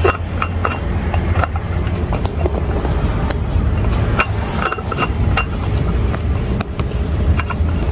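Scattered light clicks and knocks of hands working a newly fitted spin-on oil filter under a car, snugging it hand tight, over a steady low hum.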